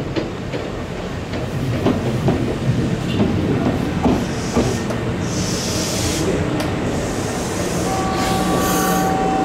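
Kintetsu commuter train pulling into a station platform, its wheels knocking over rail joints, with a burst of hiss about five seconds in. About eight seconds in a steady high squeal sets in as it slows to a stop.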